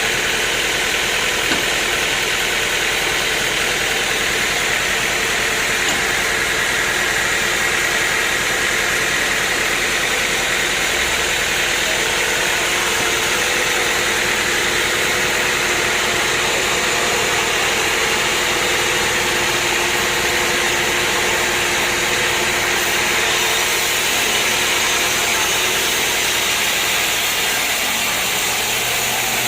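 Sawmill machinery running steadily, a loud constant mechanical noise with a steady hum that does not change.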